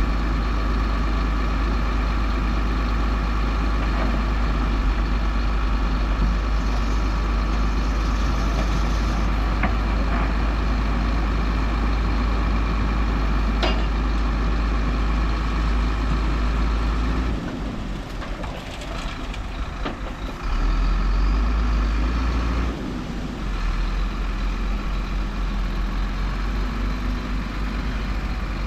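Heavy diesel earthmoving machinery running steadily under load, its engine note dropping for a few seconds about two-thirds of the way through and then coming back up.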